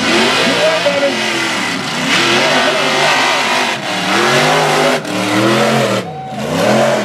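Mega truck racing engines revving hard, the pitch climbing and falling again and again as the throttle is worked; the sound dips briefly about six seconds in.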